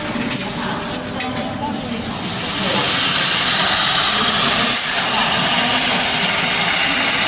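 CNC wood lathe cutting a spinning wooden workpiece: a steady hissing rasp with a faint high whine, growing louder and steadier about two and a half seconds in.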